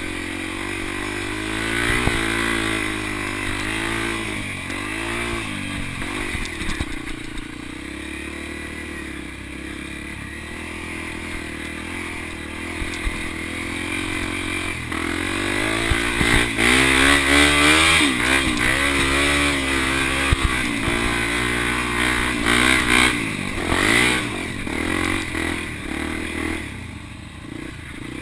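Motocross dirt bike engine revving up and falling off again and again as it is ridden round the track, loudest in the second half.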